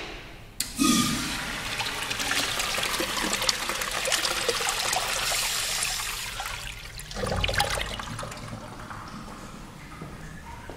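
Sloan flushometer toilet flushing automatically when its motion sensor is triggered. A click, then a loud rush of water for about six seconds, easing off into a quieter hiss.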